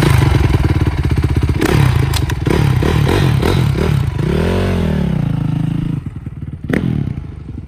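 Honda CRF450R dirt bike's single-cylinder four-stroke engine revving hard, its pitch climbing and falling, with one rev rising and dropping about four seconds in, then settling to a lower, quieter run about six seconds in. A sharp knock comes near the end.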